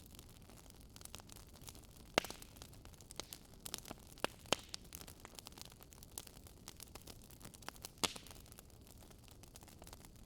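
Wood fire crackling: irregular small clicks over a soft hiss, with sharper pops about two seconds in, midway and near the end.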